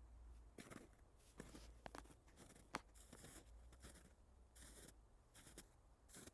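Quiet footsteps crunching through snow and brush, an uneven step every half second to a second.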